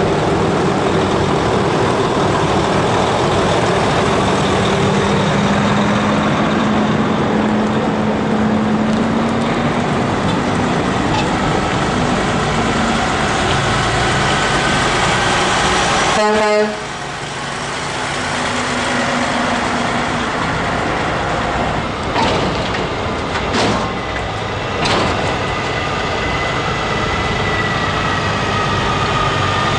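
Heavy trucks' diesel engines running as they drive past. About halfway through, the sound drops suddenly and becomes quieter, and a few short sharp sounds follow.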